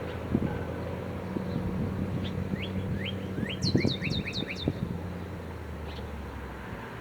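A songbird singing a quick run of about a dozen high, downslurred chirps a couple of seconds in, over a low outdoor rumble.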